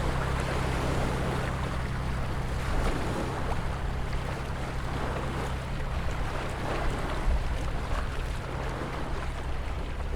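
Ocean waves washing continuously, a steady noisy surge with a low rumble underneath and small swells in level.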